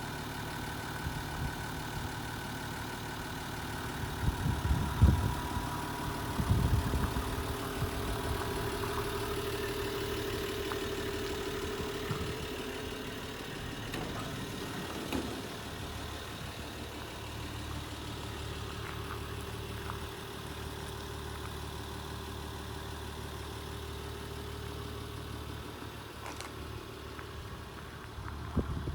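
Nissan Civilian bus's TD42 4.2-litre straight-six diesel idling steadily, with a few loud thumps about five and seven seconds in.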